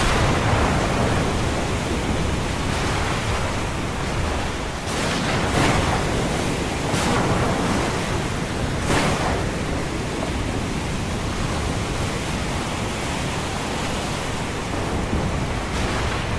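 Ocean surf washing in a steady, dense roar of water noise, with a few brief surges as waves break.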